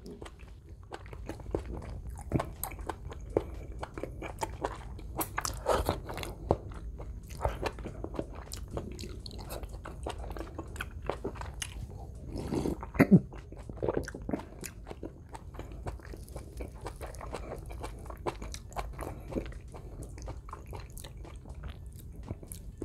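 Close-miked chewing of a mouthful of food, with irregular wet smacks and mouth clicks. About twelve to thirteen seconds in, a few louder gulps as a drink is swallowed from a glass.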